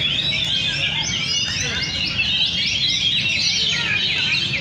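Several oriental magpie-robins (kacer) singing at once: a dense, unbroken chorus of overlapping quick whistles, chirps and pitch sweeps.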